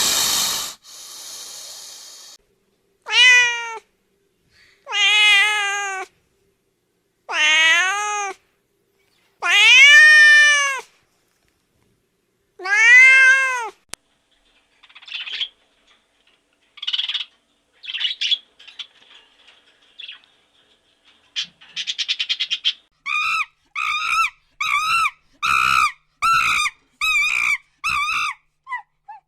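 Domestic cat meowing: five long, drawn-out meows, each rising and then falling in pitch. Fainter short high calls follow, then a quick run of about ten short, evenly repeated calls near the end. It opens with a brief burst of noise.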